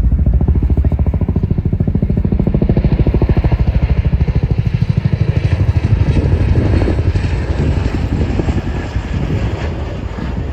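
RAF Chinook tandem-rotor helicopter with a fast, even beat from its rotor blades. The beat eases off near the end.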